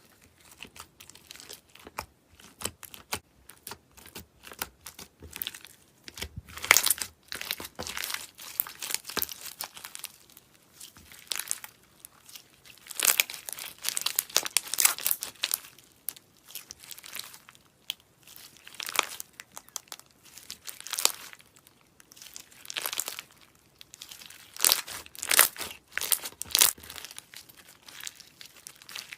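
Slime being squeezed and worked by hand, giving clusters of sharp crackles and pops that come in bursts of a second or two.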